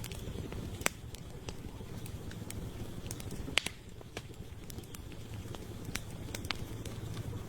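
Wood campfire crackling, with scattered sharp pops over a steady low rumble. The loudest pops come about a second in and again near the middle.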